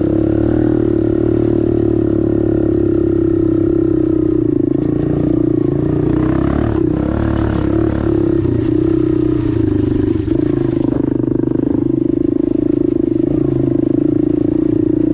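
Dirt bike engine running close to the microphone at a mostly steady pitch. Between about six and eleven seconds in, its note wavers while a broad hiss of added noise rises over it.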